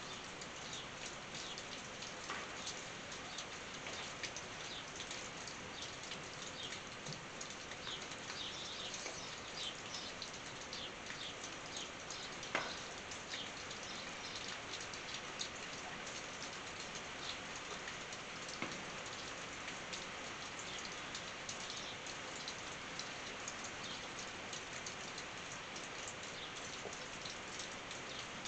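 Rain falling on a tin roof: a steady patter of drops, dotted with scattered louder single drops, the sharpest one about halfway through.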